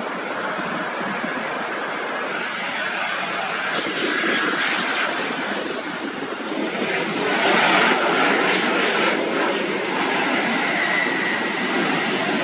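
Jet airliner engines running close by: a steady jet rumble with a thin high whine in the first few seconds. The sound swells loudest about seven to nine seconds in, as the aircraft passes.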